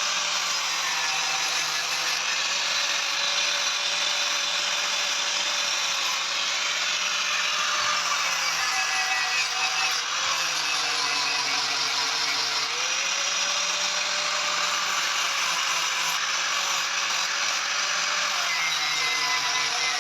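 Electric power tool motor running continuously with a steady hiss over it. Its pitch dips and recovers a few times, most deeply about ten to twelve seconds in, as when the tool is loaded against the work.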